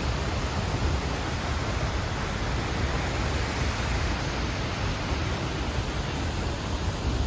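Seljalandsfoss waterfall's falling water: a steady, even rush of noise with no breaks.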